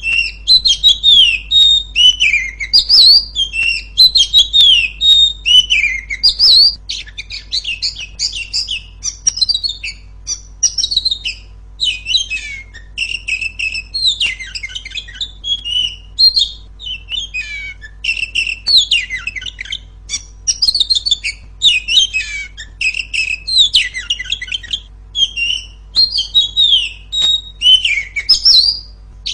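Female oriental magpie-robin singing loudly: a near-continuous run of rapid chirps and whistled phrases with only brief pauses, over a steady low hum.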